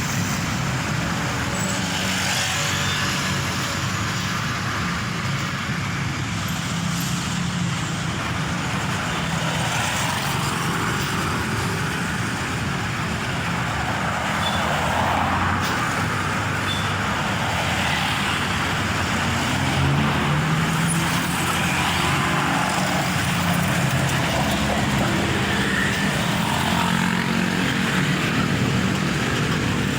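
Road traffic with the diesel engine of a Mitsubishi Fuso Fighter tronton truck running in it, a steady low engine hum over tyre and traffic noise that grows a little louder in the second half.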